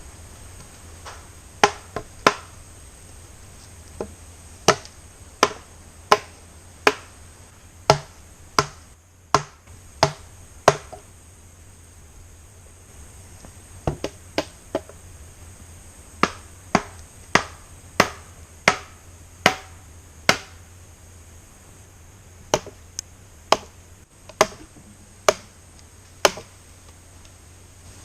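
Sharp wooden knocks from a tool striking wood, about one and a half strikes a second, in several runs with short pauses between them.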